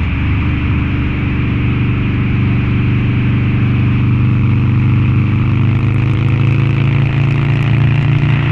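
Harley-Davidson Low Rider's 129-cubic-inch V-twin, with a Two Brothers Racing exhaust, running at a steady cruising throttle on the move.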